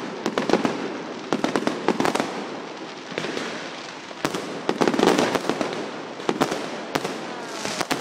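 Fireworks display going off: a steady stream of sharp bangs, some in quick clusters, over continuous crackling from bursting shells.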